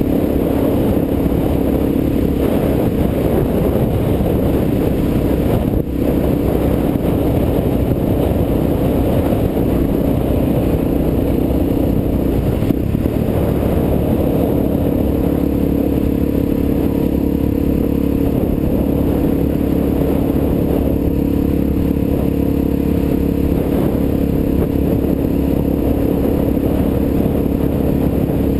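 Suzuki DR-Z400's single-cylinder four-stroke engine running steadily while the motorcycle cruises, its engine note shifting slightly about halfway through.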